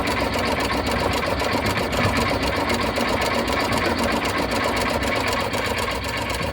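Car engine being cranked over by its starter motor, turning in a rapid, even rhythm without catching, after a throttle cable repair.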